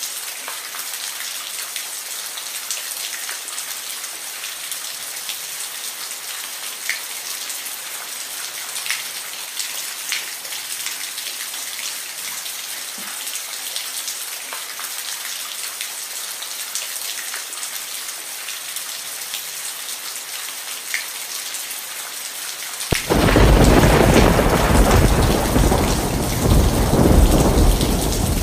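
Steady rain falling, with scattered drops ticking. Near the end a thunderclap breaks in suddenly and goes on as a loud, deep rumble under the rain.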